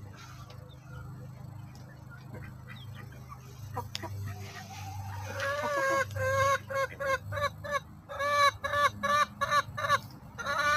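Chicken calling: a rising note about four and a half seconds in, then a loud run of short, repeated squawks, about two to three a second, with a brief pause near the eight-second mark.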